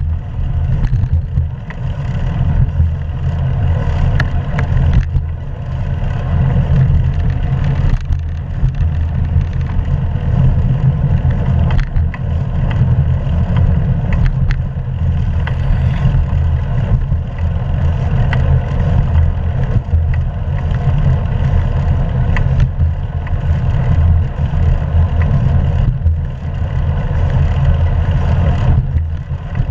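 Steady, loud rumble of wind buffeting and road noise on a camera microphone on a moving hybrid bicycle, with a few brief clicks and rattles.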